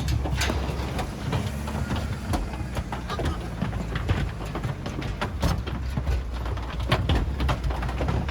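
A livestock truck's engine running with a steady low hum, under frequent sharp, irregular knocks and clatter as pigs are loaded onto it.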